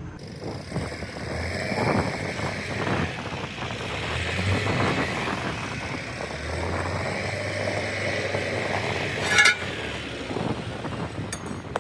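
A vehicle engine running with a steady low hum, the noise rising and falling. A single sharp, loud knock or clank comes about nine and a half seconds in.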